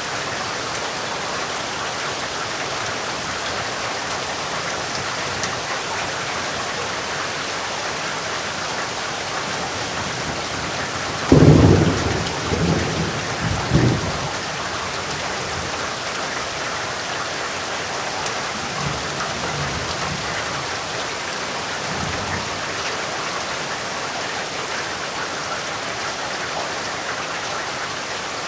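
Steady rain falling. About eleven seconds in, a loud thunderclap breaks and rumbles for about three seconds. Fainter rolls of thunder follow some seconds later.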